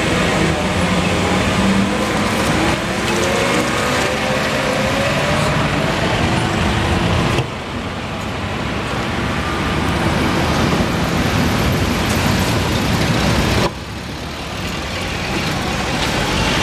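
Road traffic noise: motor vehicle engines and tyres running along the street. The sound drops abruptly twice, about seven and fourteen seconds in.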